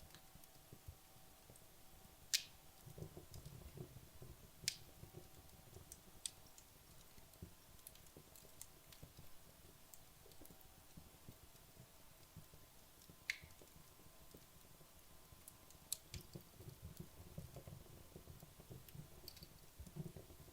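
Wood logs burning in a fireplace, crackling softly with a few sharp, scattered pops, the loudest about two seconds in, and others near five, thirteen and sixteen seconds in.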